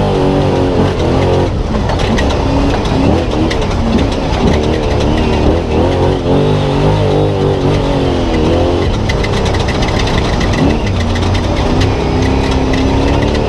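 Spec Trophy Truck's V8 heard onboard, its engine note rising and falling again and again as the throttle is worked on and off over rough ground. A fast rattling tick runs through the second half.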